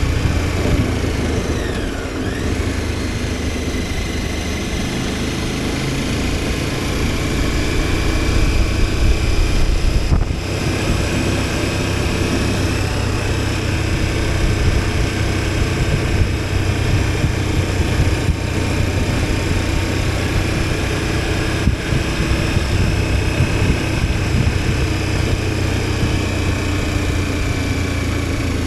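KTM 1290 Super Adventure S motorcycle's V-twin engine running steadily under way, with a constant rush of wind and road noise over it.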